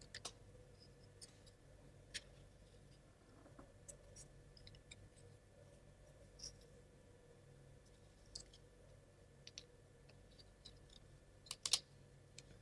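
Near silence broken by faint, scattered clicks and taps of small plywood model parts being handled and pressed together, with a couple of louder clicks near the end.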